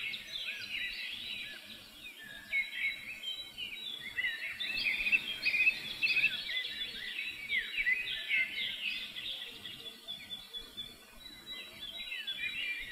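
Many small birds chirping and twittering together, a dense chorus of short, high calls that thins out briefly near the start and again about eleven seconds in.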